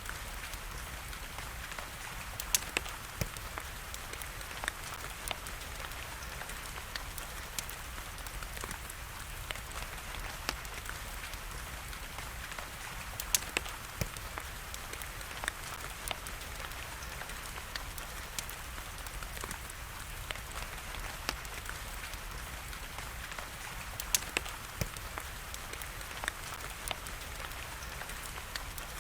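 Steady rain hiss mixed with the irregular sharp pops and crackles of a burning wood fire; a few pops stand out louder than the rest.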